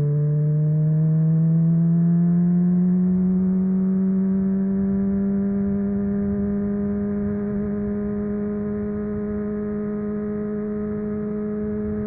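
Inline-four sport motorcycle engine pulling in gear: its pitch rises smoothly for about three seconds, then holds steady at a cruising speed.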